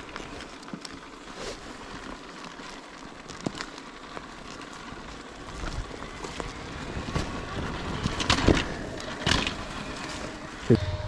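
Scuffing and crunching on dirt with scattered knocks and clicks, then a dirt bike engine starts suddenly near the end and settles into a steady idle.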